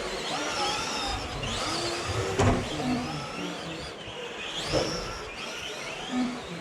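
Several radio-controlled racing trucks' motors whining, their pitch rising and falling over and over as they accelerate and slow through the corners. There is a sharp knock about two and a half seconds in.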